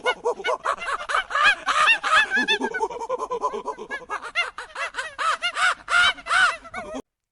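A flock of birds calling, many short rising-and-falling calls overlapping several times a second; it stops abruptly near the end.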